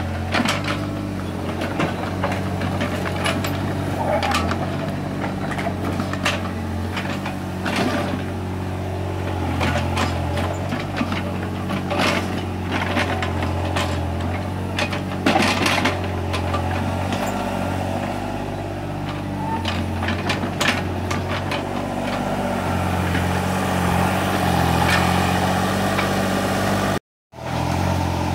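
Mini excavator's diesel engine running steadily while it digs, with frequent clanks and knocks. The sound cuts out for a moment near the end.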